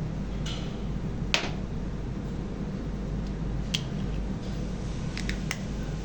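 A few sharp clicks and taps over a steady low hum; the loudest click comes about a second in, and a quick pair of clicks near the end.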